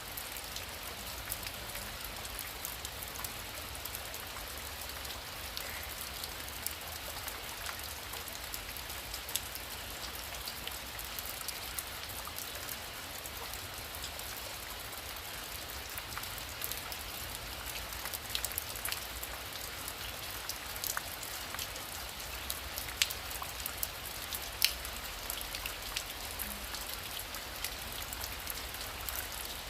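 Heavy rain falling steadily: an even hiss with scattered sharp ticks of single drops striking a surface, a few louder ticks in the second half.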